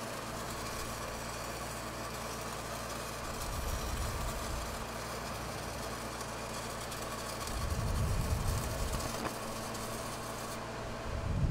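Stick welding with a 6010 rod run downhill: the arc crackling and hissing steadily, over a steady engine-like drone.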